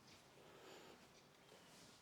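Near silence: faint background noise with no distinct event.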